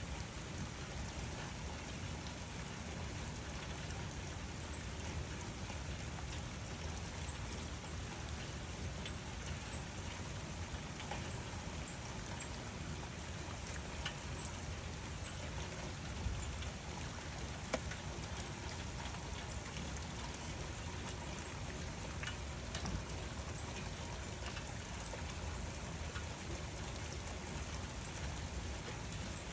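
Steady rain falling, an even hiss with scattered sharper drop ticks, a couple of them louder past the middle.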